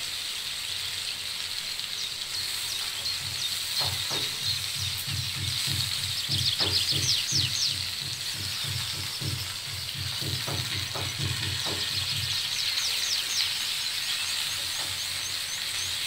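Food frying in a cast iron skillet: a steady sizzle of butter, diced potatoes and eggs, with a run of soft low thuds in the middle. Birds chirp briefly several times.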